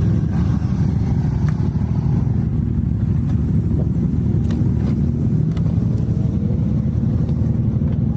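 Steady low rumble of a motor vehicle on the move, engine and road noise.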